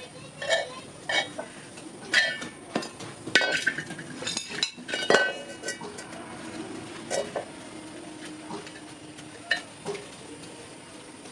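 Metal objects knocked and handled: irregular clanks and clinks, each with a brief metallic ring. They come thick for about the first six seconds, then only a few scattered strikes follow.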